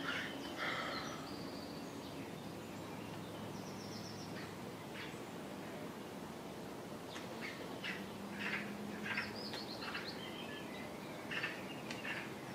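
Small birds chirping over a steady outdoor background hiss: short, high chirps, scattered at first and coming in quick clusters over the last few seconds.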